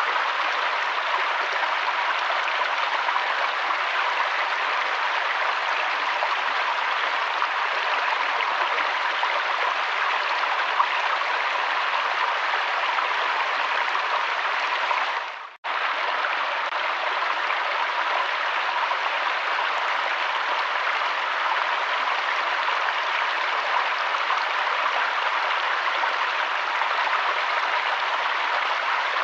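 Steady rushing of flowing river water. About halfway through it briefly fades to near silence and comes straight back, like a loop point in the recording.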